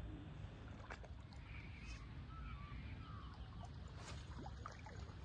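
Water lapping at the shoreline under a steady low wind rumble on the microphone, with a few faint short bird calls.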